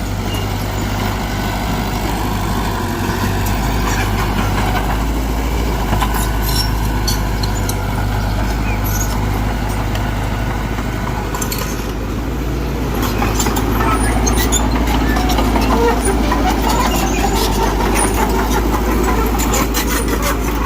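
Heavy earthmoving machine's engine running steadily under load, growing louder about two-thirds of the way through, with scattered metallic clanks and knocks.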